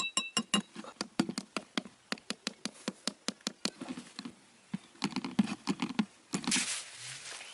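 Rapid, irregular sharp taps, several a second, with a short pause about two-thirds of the way through, then a rustle near the end.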